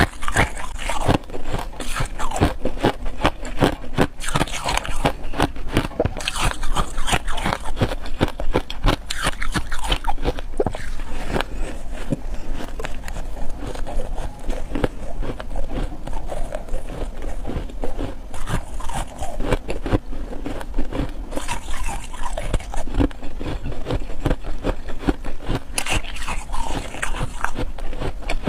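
Ice being bitten and chewed: dense, continuous crunching and crackling.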